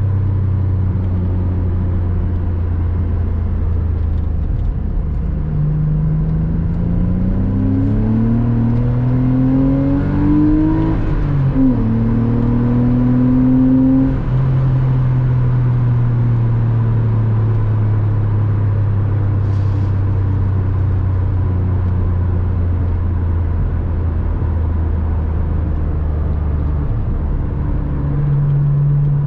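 Porsche Boxster 986's flat-six engine under way: steady, then pulling up through the revs from about five seconds in, a sudden drop in pitch at a gear change near the middle, another short climb, then the revs fall away slowly as the car eases off.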